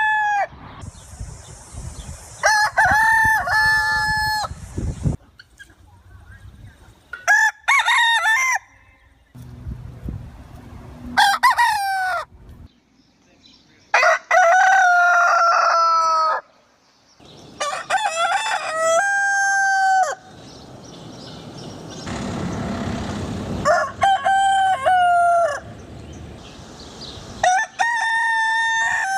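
Roosters crowing: about eight long crows, one every few seconds.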